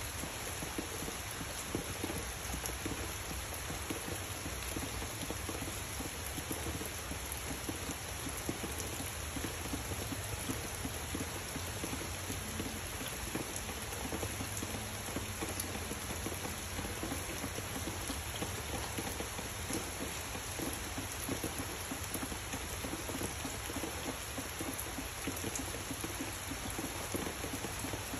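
Steady rain falling on dense tree foliage, an even hiss with scattered sharp ticks of single drops.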